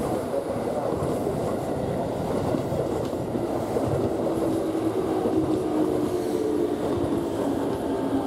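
Keikyu train running, its steady rumble of wheels on track heard from inside the car. A faint motor whine joins about halfway through.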